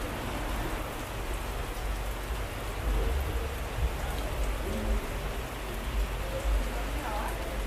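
Heavy rain pouring steadily in a tropical downpour, with a low rumble underneath that swells and fades.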